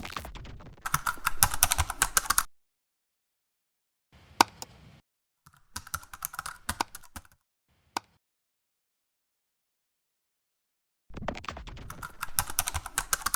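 Rapid keyboard typing: dense runs of clicks in several bursts, separated by stretches of dead silence.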